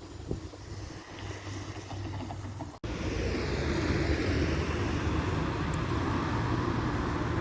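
Tram running with a low steady hum; after an abrupt cut about three seconds in, louder rolling noise from a tram passing close.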